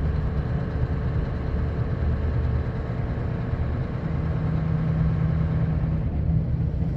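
Sanding truck running down the road, heard from inside the cab: a steady low engine and road rumble, with a steady engine note coming in about four seconds in.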